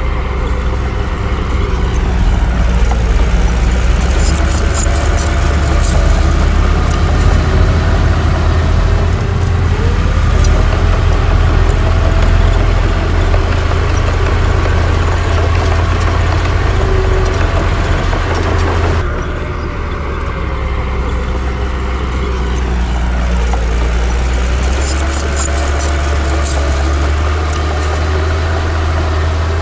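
Heavy diesel bulldozer engine running under load: a deep steady run with a whine that rises and falls, and bursts of rattling clicks. The sound shifts abruptly about two-thirds of the way through.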